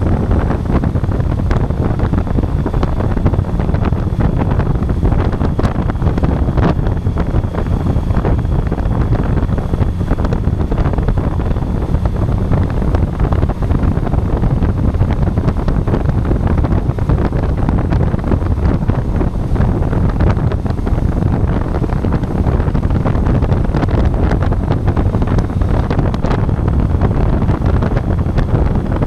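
Steady, loud wind buffeting on an action camera's microphone while riding a motorcycle, with the motorcycle and road running underneath.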